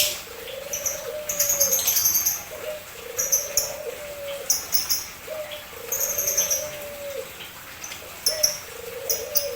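Caged birds chirping in quick, high clusters of notes, over a low drawn-out coo that repeats again and again.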